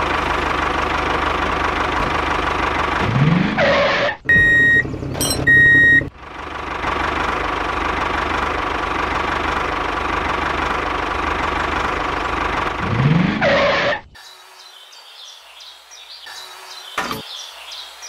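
Tractor engine running steadily with a rising whine twice. Two short horn beeps come about four and five and a half seconds in. The engine sound drops away sharply about fourteen seconds in.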